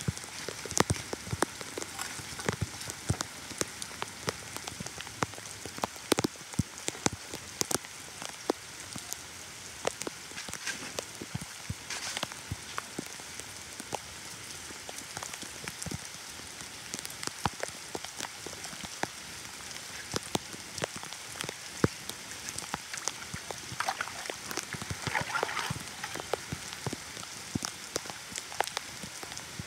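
Heavy rain falling steadily on flooded ground and standing water, with many sharp, irregular drop impacts close by.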